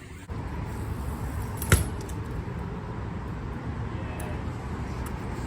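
BMX bike rolling over concrete, a steady low rumble, with one sharp hard impact a little under two seconds in, and a few light clicks later on.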